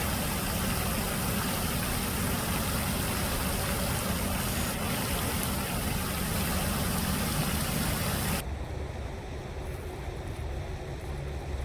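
Steady rushing noise that stops abruptly about eight seconds in, leaving a lower rumble.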